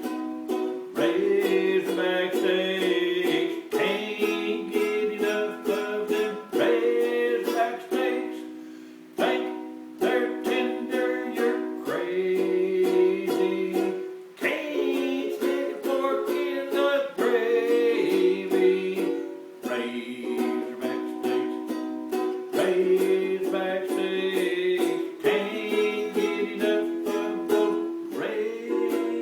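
Live acoustic music: a small plucked string instrument strummed in rhythmic chords, in phrases a few seconds long.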